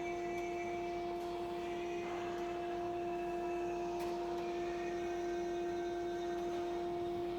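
Steady electrical hum from a laboratory electric furnace: one constant mid-pitched tone with a fainter tone an octave above, over a faint hiss, unchanging throughout.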